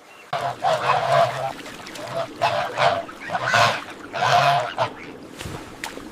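Waterfowl, geese or ducks, calling over and over, about a dozen loud calls in quick succession over some five seconds.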